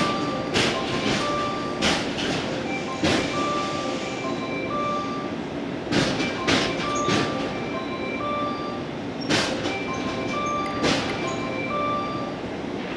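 A yellow JR West 115-series train arriving slowly at a platform, its wheels giving sharp clacks over the rail joints and points at uneven intervals, some in pairs. Throughout, a station's electronic approach chime keeps playing a short melody of held notes.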